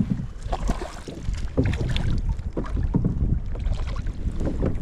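Wind rumbling on the microphone, with irregular knocks and clatter around a fishing kayak as a fish is reeled in.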